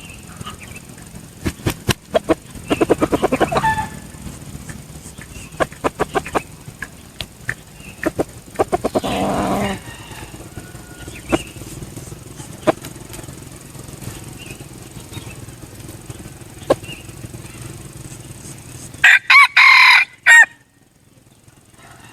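Red junglefowl rooster sounds: scattered clicks and two bursts of rapid pulsing clucks, then a loud crow near the end that cuts off abruptly.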